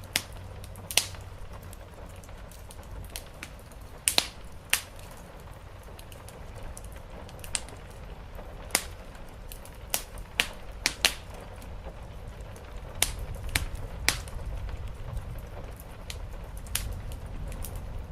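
Wood fire crackling with irregular sharp pops, a dozen or so spread through, over a steady rain-on-the-roof hiss and low rumble that swells a little in the second half.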